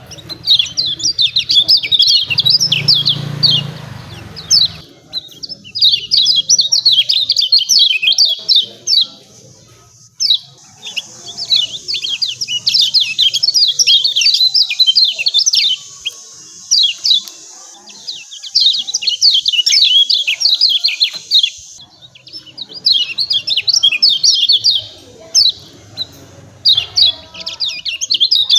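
Kecial kuning, a small white-eye, giving its rapid "ciak ciak" chirping calls: fast runs of high, sharp notes in bursts a few seconds long, broken by short pauses. A faint low hum sits under the first few seconds.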